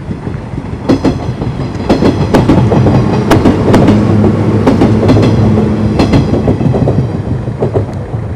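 A JR Kyushu 415 series electric train passing close by: wheels clacking over rail joints in a quick irregular series of loud strikes over a rumble with a low hum. It builds about a second in and fades near the end.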